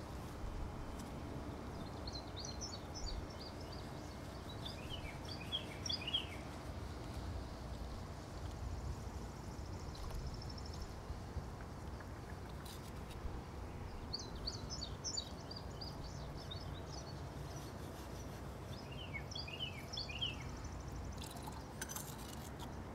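A songbird singing four short phrases of quick high chirps, a few seconds apart, over a steady low background rumble, with a few faint clicks.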